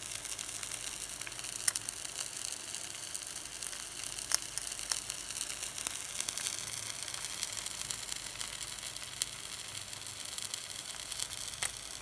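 Minced-meat cutlets sizzling in hot oil in a frying pan: a steady hiss with a few sharp spitting pops.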